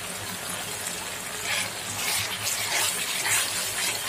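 Green chillies frying in hot oil with browned onions and ginger-garlic paste, sizzling steadily as they are stirred with a metal slotted spatula; the sizzle swells from about a second and a half in.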